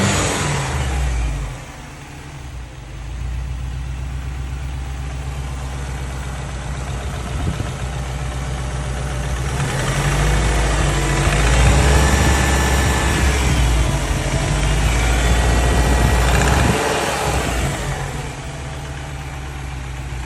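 Subaru EJ205 turbocharged flat-four running. It drops to idle about a second and a half in, is revved up around halfway with the pitch rising and falling, then settles back to idle near the end. The engine carries a knock that the owner cannot place: rod knock, piston slap or the timing belt tensioner.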